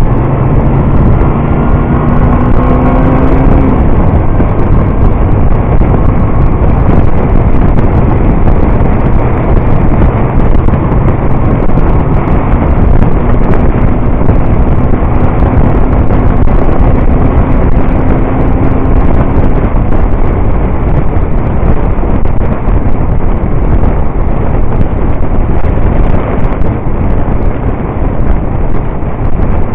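Motorcycle riding at road speed, with engine noise and wind rushing over the microphone. The engine note climbs in the first few seconds and again slowly in the middle.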